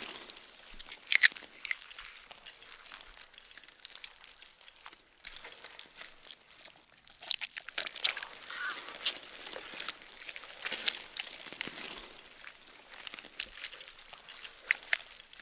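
Gore sound effect: irregular wet crunching, crackling and tearing, like flesh and bone being crushed and pulled apart, with a sharp crack about a second in.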